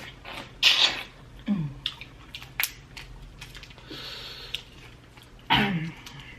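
Close-miked eating sounds: a person chewing and smacking on spicy prawns, with sharp clicks of mouth and utensils, hissed breaths and two short low moans that fall in pitch, one about a second and a half in and one near the end, reacting to the heat.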